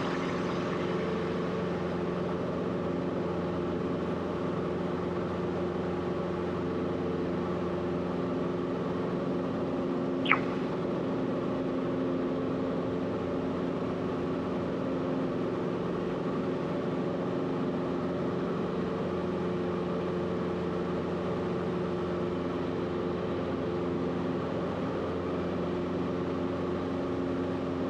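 Cessna 172RG's four-cylinder Lycoming engine and propeller droning steadily at climb power, heard in the cabin. A brief falling chirp comes about ten seconds in.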